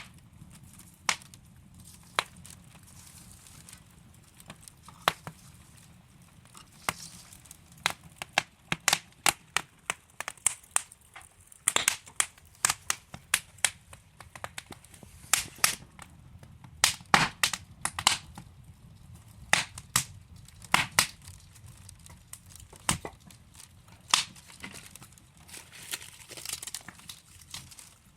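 Wood fire in a fireplace crackling: sharp, irregular pops and snaps from burning logs over a soft steady hiss. The pops come thickest in the middle stretch.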